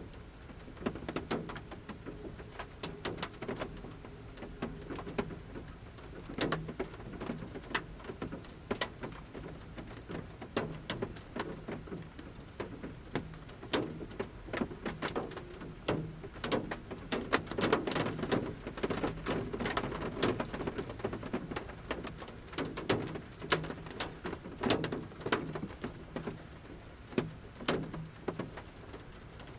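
Large raindrops from the forest canopy pattering at irregular intervals onto the roof of a camper van, over a light steady rain. The taps vary in strength, some sharp and loud, with a hollow resonance from the roof.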